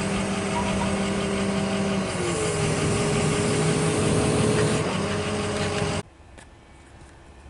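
An engine running steadily, shifting in pitch about two seconds in as its load changes, then cutting off suddenly about six seconds in.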